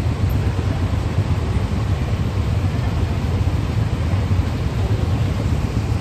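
Several motorcycles and scooters idling together, a steady low engine rumble.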